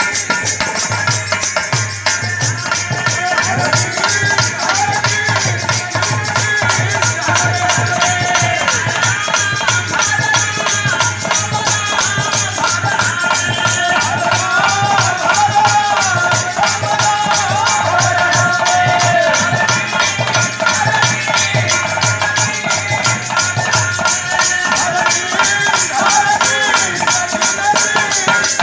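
Kirtan music: a fast, steady rattle of shaken percussion over a wavering melody line and a low drum pulse.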